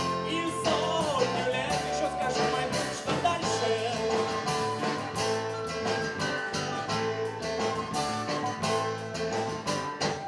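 Art-rock band playing live: guitar and sustained instrumental lines over a steady beat.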